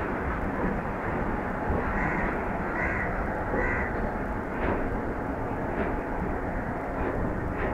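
Passenger train coaches rolling past: a steady rumble of wheels on the track, with a few faint clicks from the wheels later on. About two seconds in, three short caws from a crow, roughly a second apart, sound over the rumble.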